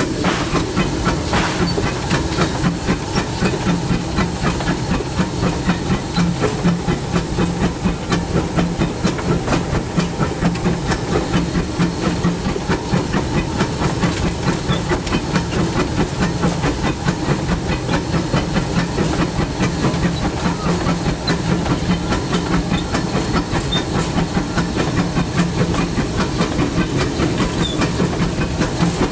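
Disneyland Railroad steam locomotive running, heard from inside its cab: continuous steam hiss over the engine's steady, quick rhythmic beat and the sound of the train rolling on the rails.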